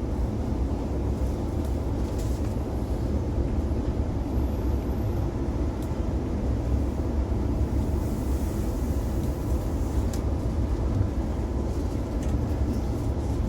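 Steady running rumble inside a moving Oscar H set electric train carriage, the wheels rolling on the rails, with a few faint ticks and rattles.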